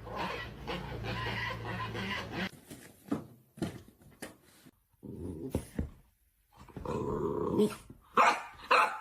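A dog growling, then barking in a quick run of short barks near the end.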